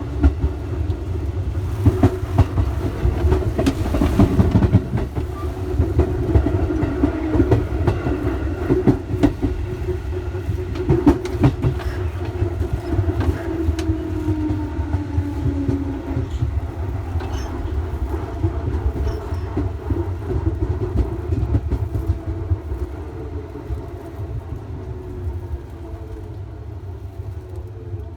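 Electric train running on the rails, wheels clattering over rail joints, with a motor tone that falls in pitch as the train slows in the second half.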